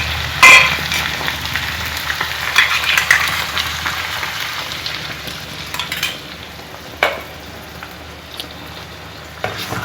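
Chicken curry sizzling in a hot pan, the sizzle slowly dying down, with a few sharp clinks of a utensil or the mixer jar against the pan, the loudest about half a second in.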